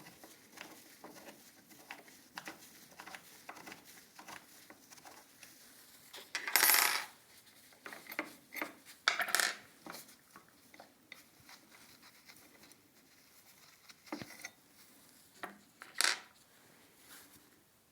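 Hard parts being handled: scattered light metallic clicks and clinks, with a few louder clattering noises about a third and halfway in and again near the end.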